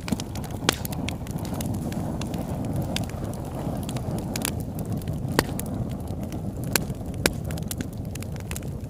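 Campfire crackling: sharp pops of burning wood come every second or so over a steady low rumble.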